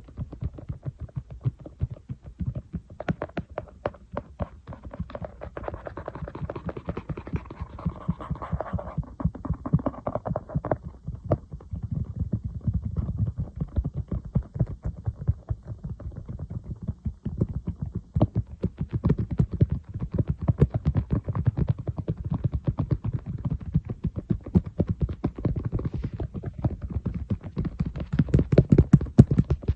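Fingers and nails tapping and scratching on an iPad, a fast, dense run of many taps a second.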